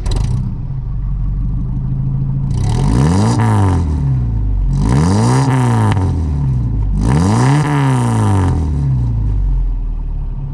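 1987 Toyota pickup's engine idling and being revved three times through its exhaust, each rev climbing and falling back to idle.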